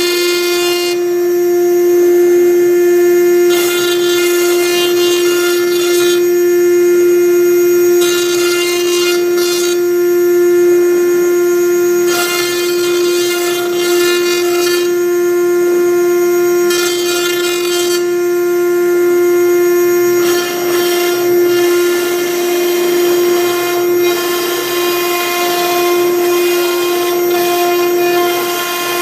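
CNC router spindle whining at a steady high pitch while a V-bit engraves into MDF. A harsher, hissing cutting noise comes and goes every two to three seconds over the whine.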